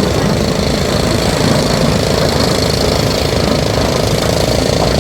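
Heavy diesel engine of an earthmoving machine running hard with a steady, dense clattering rattle, and a brief knock right at the start.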